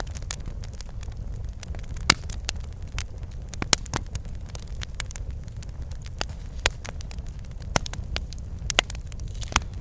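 Wood fire crackling in a fireplace: irregular sharp pops and snaps over a low, steady rumble of burning, with a louder pop about two seconds in.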